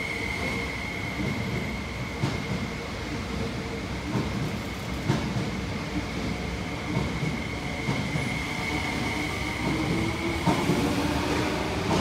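MTR SP1900 electric multiple unit passing through a station without stopping: a steady rumble of wheels on rail, a high steady whine that fades out near the end, and a few sharp clacks at intervals.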